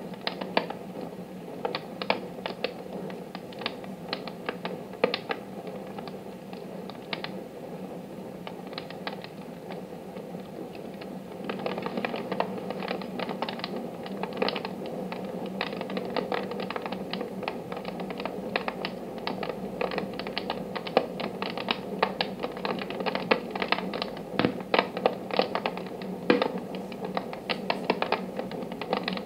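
Wood fire crackling in a wood-burning stove, a steady stream of irregular sharp snaps and pops over a low hum; the crackling grows louder and busier about twelve seconds in.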